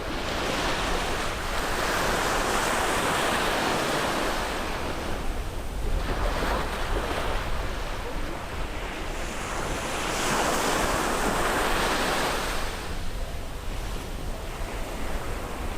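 Ocean surf breaking on a beach, each wave washing in as a hissing surge and then drawing back. The two biggest waves come near the start and about ten seconds in, with a smaller one between them.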